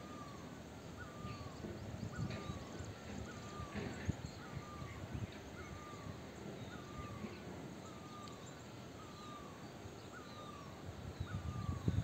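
A bird repeating the same short, hooked call about once a second, with faint chirps of other birds and an uneven low rumble underneath.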